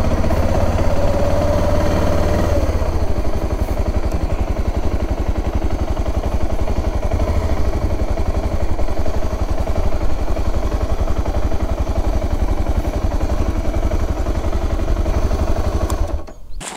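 Motorcycle engine running steadily with a deep low rumble, cutting off suddenly near the end.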